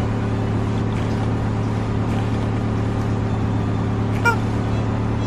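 Car engine idling with a steady low hum. A brief high squeak sounds once, about four seconds in.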